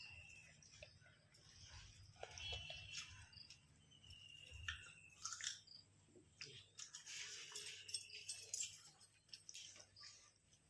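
Eating sounds: chewing, crunching and mouth smacks in an irregular run of soft clicks and bursts, a little busier in the second half. A short high tone comes a few times.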